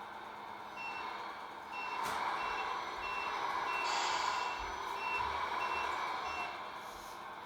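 Reversing beeper of a Tamiya radio-controlled MAN truck: about ten short, evenly spaced high beeps, over a steady engine sound. A short hiss comes about four seconds in.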